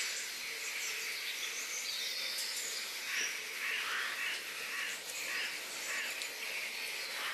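Outdoor ambience of birds chirping and insects over a steady background hiss, with short repeated calls throughout.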